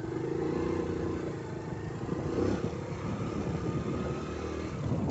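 Honda Pop 100's small single-cylinder four-stroke engine running steadily under way, with wind and road noise as the bike rides over a sandy dirt road.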